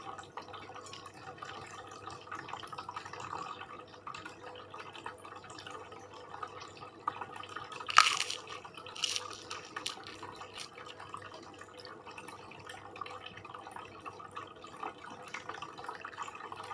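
Close-miked eating sounds: a steady run of small wet clicks and smacks from chewing and handling food. A sharp, loud click or clink comes about eight seconds in, with a smaller one a second later.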